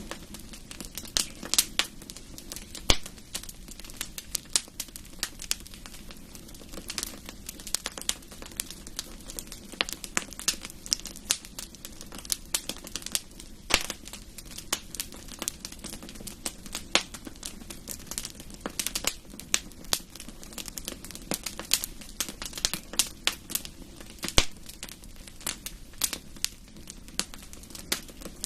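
Wood fire crackling in a fireplace: irregular sharp pops and snaps, several a second, with louder pops now and then over a steady low hiss of burning.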